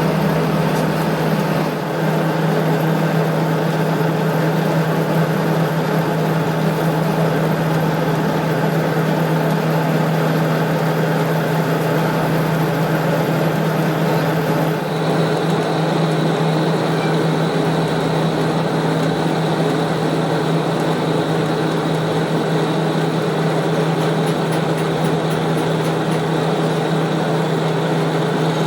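A steady machine hum with a strong, unchanging low drone under an even hiss; the higher hiss changes abruptly about halfway through.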